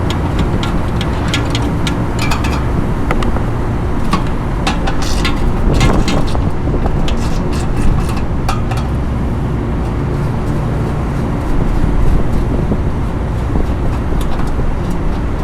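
A steady low mechanical rumble, with a run of sharp clicks and taps over it in roughly the first nine seconds.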